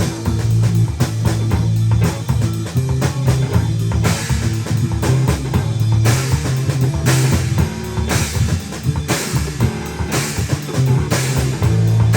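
Live band playing a rock song with no singing: drum kit, guitar and bass guitar. Cymbal hits ring out about once a second in the second half.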